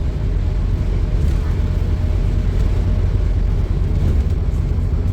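Scania N230UD double-decker bus's five-cylinder diesel engine running steadily with a low drone.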